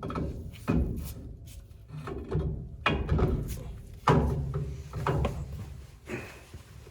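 Hand work on truck rear-axle parts: a series of about six clunks and knocks with scraping and rubbing between them.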